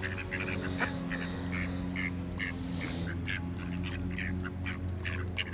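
Ducks quacking in short calls, about two or three a second, over a steady low hum.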